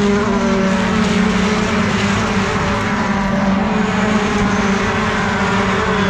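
Race trucks' diesel engines running together in a steady, loud drone with little change in pitch.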